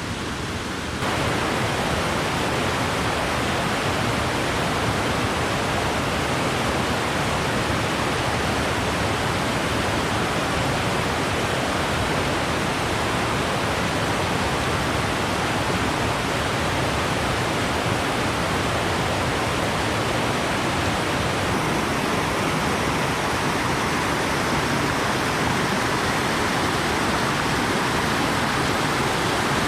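Rushing stream water: a steady rush that gets louder about a second in and then holds.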